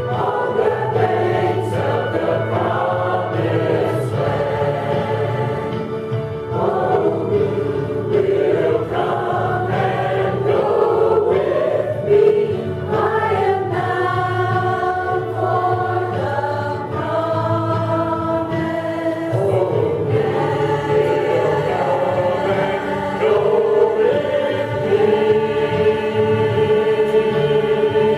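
A church choir singing a gospel song, with long held notes.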